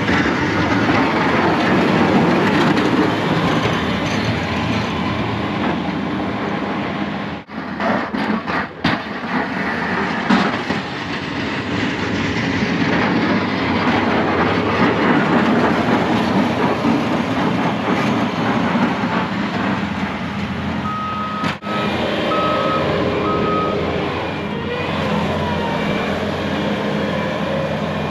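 Snow plow truck running steadily, with a few short beeps about three quarters of the way through.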